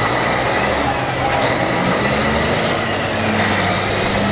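Heavy trucks' diesel engines running as the rigs roll past in a slow parade: a steady, loud mix of low engine hum and road noise.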